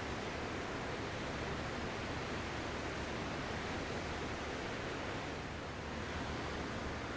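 Ocean surf as a steady, even rush of water noise, without distinct single waves breaking.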